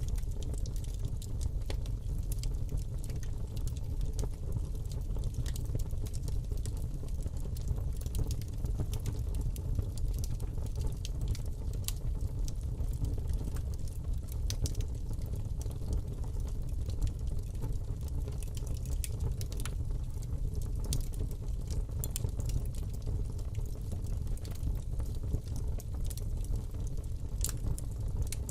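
Fire burning in a fireplace: a steady low rumble of flame with frequent short, sharp crackles and pops at irregular intervals.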